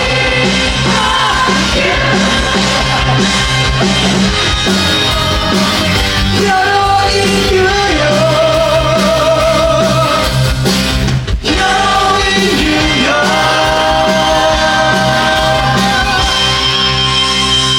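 Live musical-theatre number with a rock band backing and voices singing long held notes, one of them with a wide vibrato; the music dips briefly about eleven seconds in.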